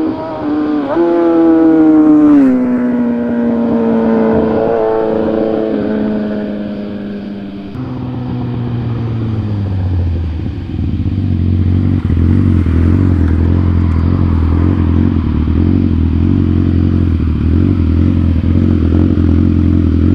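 BMW S1000RR inline-four sport bike with a full Austin Racing exhaust passing at speed, its note dropping sharply in pitch as it goes by and falling away over several seconds. From about ten seconds in it runs steady and loud close by at low revs, with an uneven pulse, like idling.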